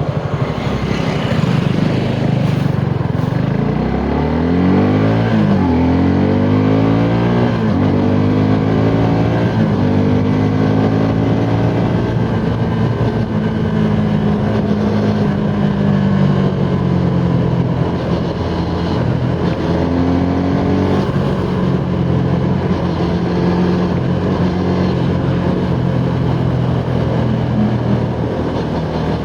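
Suzuki Gixxer SF 250's single-cylinder engine accelerating hard through the gears on a top-speed run. The pitch climbs several times in the first eight seconds or so, then holds at a steady high rev.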